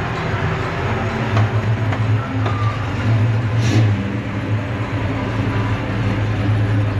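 A classic 1960s two-door coupe's engine running steadily low as the car pulls away from the curb and rolls slowly off.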